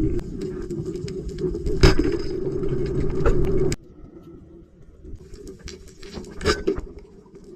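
Muffled underwater noise with scattered sharp clicks, loud until about four seconds in, where it drops abruptly to a quieter wash with a few more clicks.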